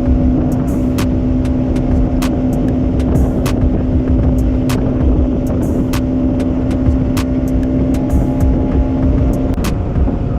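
Bajaj Pulsar NS200's single-cylinder engine running at a steady speed under heavy wind noise, its note changing near the end. Many sharp ticks, as of raindrops hitting the camera, scattered throughout.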